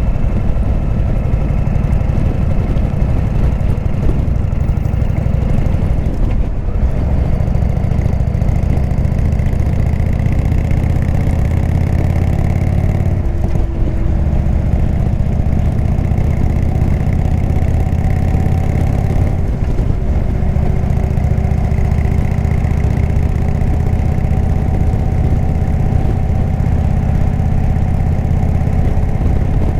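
Indian V-twin motorcycle engine with a Jekill & Hyde exhaust, running steadily on the move. The engine note drops and changes briefly three times, about 6, 13 and 19 seconds in.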